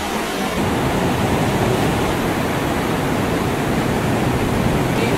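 Steady rushing noise of wind on the microphone and water spray from a jet ski running at speed.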